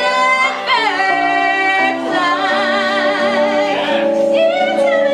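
A woman singing long held notes with a strong wavering vibrato over sustained accompanying chords, with no clear words.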